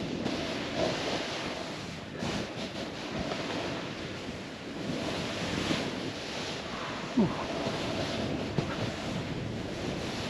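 Snowboard sliding and carving through powder snow, with wind rushing over the microphone as a steady, uneven hiss. A short falling sound comes about seven seconds in.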